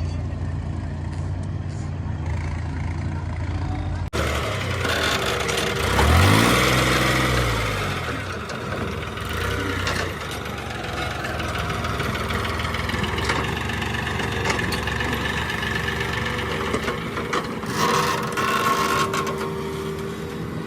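Heavy diesel engine of earth-moving and farm machinery running steadily, revving up and back down once about six seconds in, then settling back to a steady run.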